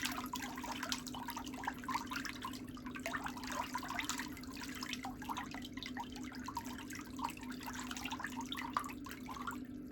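Water trickling and splashing in small irregular spatters over a steady low hum.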